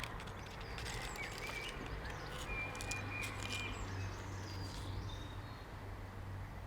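Faint birdsong outdoors: a few short chirps and whistles over a steady low hum, with some light clicks in the first second or so.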